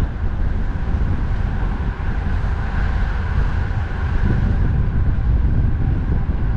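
Steady low wind rumble on the microphone, mixed with road traffic noise.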